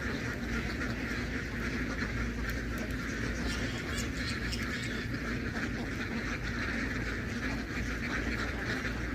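A large flock of domestic ducks quacking together in a steady, dense chorus.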